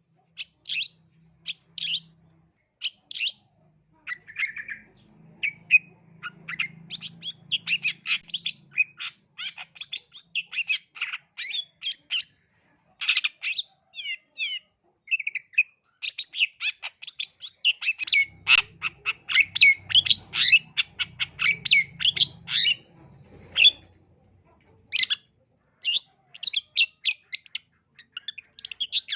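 Long-tailed shrike (cendet) singing a fast, varied run of sharp chattering notes and short calls, coming in bursts with brief pauses between them.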